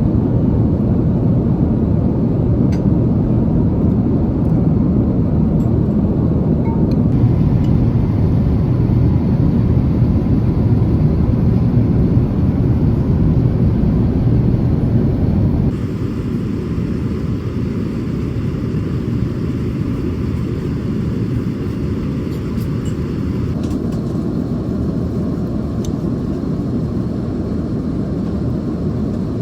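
Steady in-flight cabin noise of an Airbus A350-900 airliner: a constant low rush of engines and airflow. It shifts abruptly in tone about 7, 16 and 24 seconds in, and is louder in the first half.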